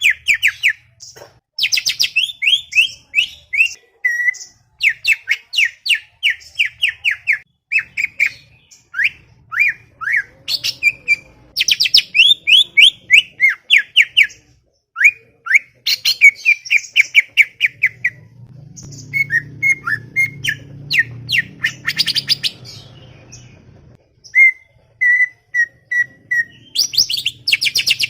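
Green leafbird (cucak ijo) singing a fast, chattering song: quick runs of sharp downward-sweeping notes mixed with clicks, in bursts separated by short pauses.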